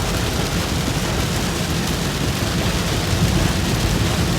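Heavy rain on a moving vehicle, a steady hiss over a constant low road rumble.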